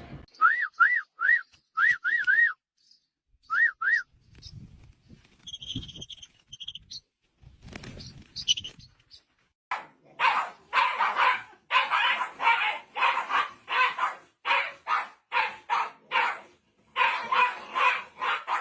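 A run of short, high-pitched squeaks, then after a quieter stretch a dog barking rapidly and repeatedly for the last several seconds.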